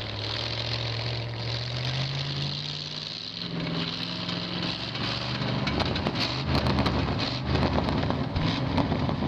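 Linn tractor's 350 small-block Chevrolet V8 running. Its pitch rises over a couple of seconds, then settles and wavers. Scattered sharp clicks and knocks come in the second half.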